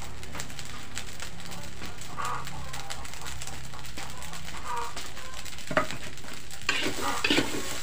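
Fried rice sizzling in a large aluminium wok. Near the end a metal spatula scrapes and clinks against the pan several times as the rice is stirred.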